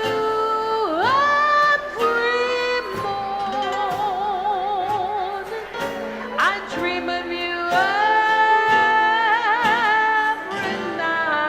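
A woman singing a slow jazz ballad over instrumental accompaniment. She holds long notes with a wide, wavering vibrato, and there is a swooping slide down and back up about a second in.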